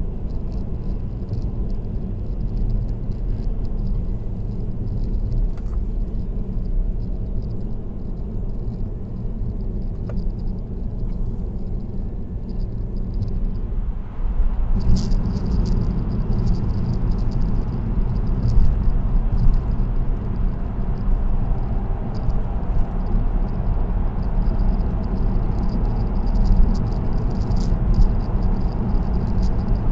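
Steady tyre and road noise heard from inside a car travelling at expressway speed, with light rattling ticks on top. The noise turns louder about halfway through and stays louder.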